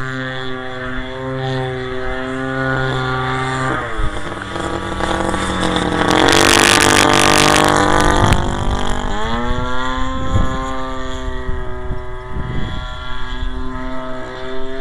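Model airplane's converted Homelite 30cc two-stroke string-trimmer engine running in flight, with a steady propeller drone. The pitch drops about four seconds in as the throttle comes back and rises again near the nine-second mark, with a loud rushing noise for about two seconds in the middle.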